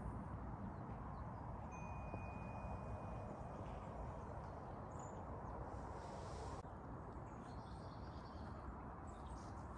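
Faint birdsong in a forest: a thin, steady whistled note held for about two seconds, then scattered short high chirps, over a steady low background rush.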